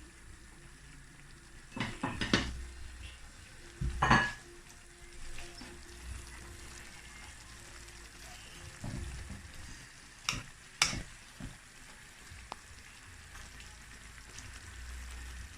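Chicken sizzling in a pot with a little water while it is stirred, a spoon knocking against the pot several times.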